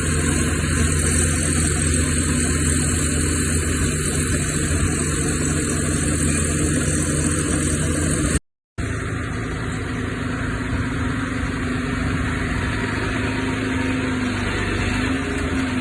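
Heavy machinery's diesel engine running steadily. The sound cuts out completely for a moment about halfway through, then carries on with a slightly different engine note.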